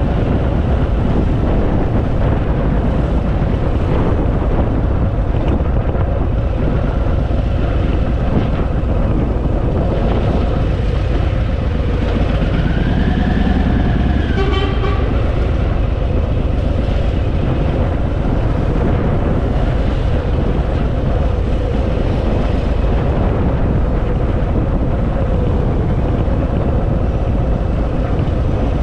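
Harley-Davidson Fat Boy's V-twin engine running under way, with a steady rumble and road and wind noise, recorded from the moving motorcycle. About halfway through a brief pitched tone, like a toot, rises over it.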